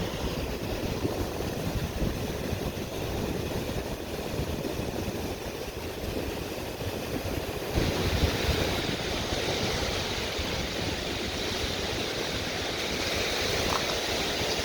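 Lake Michigan waves washing onto a rocky shore, with wind buffeting the microphone in a low, fluttering rumble. The hiss of the water grows louder about halfway through.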